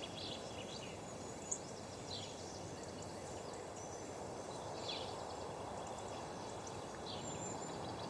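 Quiet outdoor ambience: a steady hiss with scattered short bird chirps and whistles, about half a dozen spread through the stretch.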